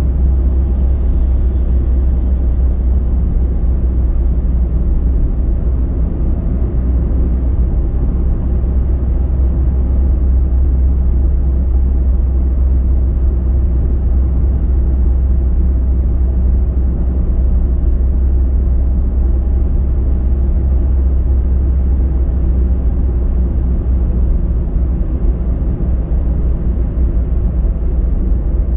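A car driving at steady speed: a constant low rumble of engine and tyre noise.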